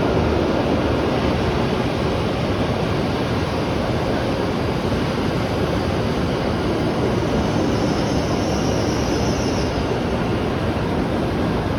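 W7 series Hokuriku Shinkansen train running into a station platform: a steady rumble and rolling noise from the passing cars, with a faint high hiss about eight seconds in.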